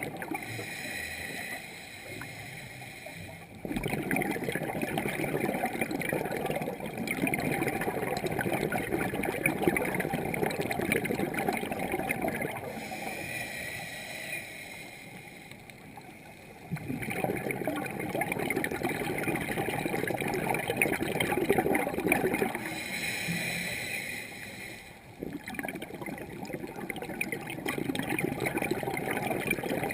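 Scuba diver breathing through a regulator underwater: long gurgling bursts of exhaled bubbles alternating with shorter, quieter intakes, about three breaths.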